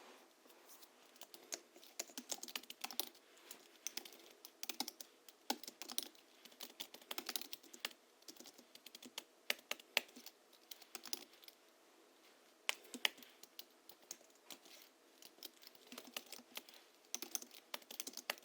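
Typing on a Hansung GHL-5X keyboard, tuned with 50 g rubber domes and Krytox-lubricated springs, keys clacking in quick irregular runs with a few short pauses between bursts.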